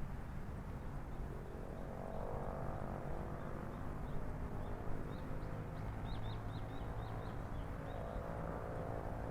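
Small birds chirping a quick run of short, high notes over a steady low city hum. The hum swells twice.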